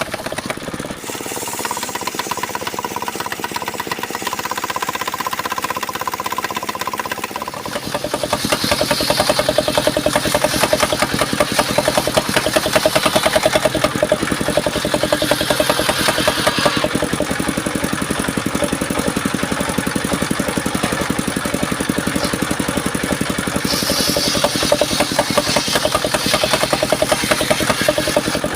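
Engine-driven circular sawmill running with a steady whine, then louder from about eight seconds in as the saw blade cuts through mahogany, with two long stretches of hissing cutting noise.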